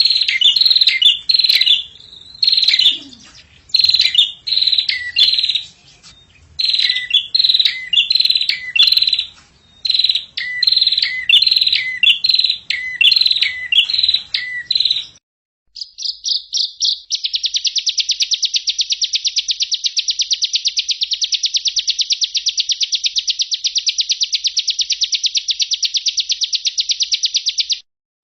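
Songbird masteran (training recording): a bird's short chirping phrases repeat quickly one after another. After a brief break, a long, even, very fast trill runs for about ten seconds and then cuts off abruptly.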